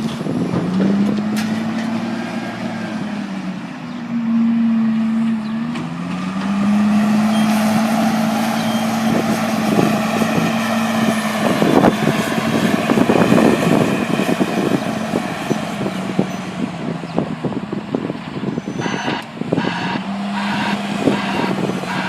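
Heavy farm machinery engine working at silage harvesting, its revs rising and falling repeatedly, with clattering that peaks about halfway through. Near the end, a regular pulsing sound comes in at about two pulses a second.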